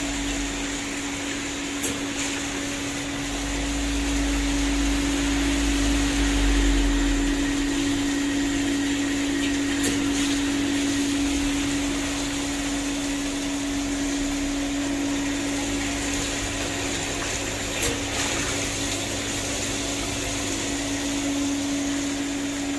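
A diesel particulate filter cleaning machine running: a steady hum over a broad hiss, with a faint click about every eight seconds.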